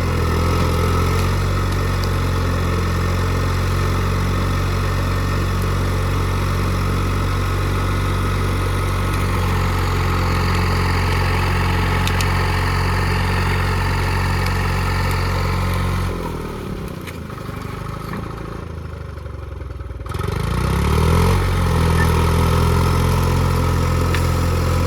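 Allis-Chalmers HD5 crawler's Detroit 2-71 two-stroke diesel running steadily. About two-thirds of the way through it drops off and runs lower for about four seconds, then picks back up.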